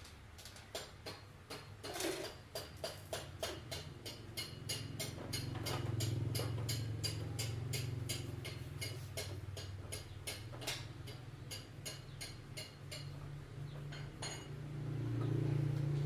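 Quick run of light, regular clicks or taps from hand-tool work on a motorcycle, several a second, stopping about thirteen seconds in. Under it a low steady hum swells twice, around six seconds in and again near the end.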